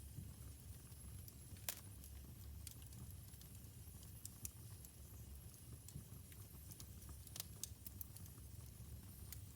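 Faint wood fire crackling in a fireplace: irregular sharp pops and snaps, the loudest about two seconds in and again about seven seconds in, over a low steady rumble.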